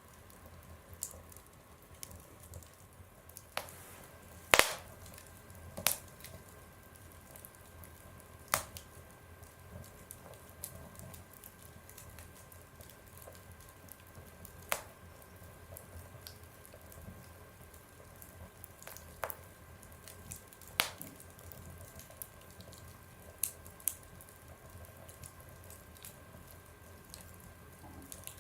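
Wood fire crackling in a stove: sharp pops at irregular intervals, a dozen or so, the loudest about four and a half seconds in, over a faint steady background.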